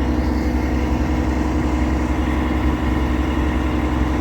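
Heavy engine idling steadily, with a deep, even hum.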